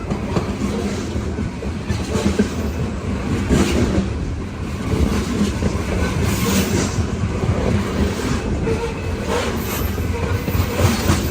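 Coal cars of a long freight train rolling past, a steady rumble with the steel wheels clacking over rail joints every second or two.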